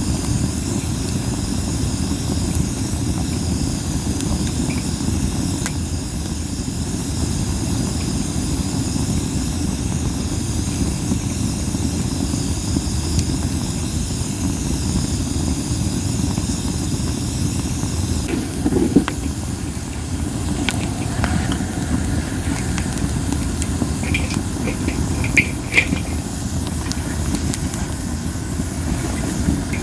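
Campfire of burning masaki wood hissing steadily over a low rumble of wind on the microphone. The hissing fades about two-thirds of the way through, and a few sharp crackles and pops follow.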